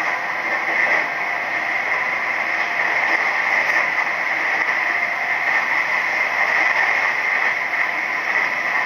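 Nishitetsu 3000 series electric train running at speed, heard from inside the passenger car: a steady rushing rail and running noise with a high hiss.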